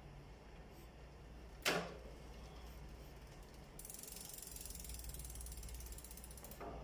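A sharp click or knock, then, from a little before the middle, the rapid even ticking of a bicycle rear hub's freewheel pawls as the wheel spins.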